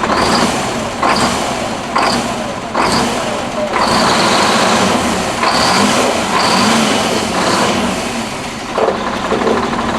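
Detroit Diesel 6V92 two-stroke V6 diesel in a Ford 9000 truck running and being revved in short throttle blips, roughly once a second, with one longer rev in the middle.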